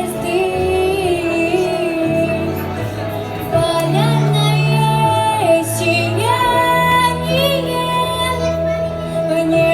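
A girl singing a slow melody over a backing track, holding notes with vibrato above long, steady bass notes.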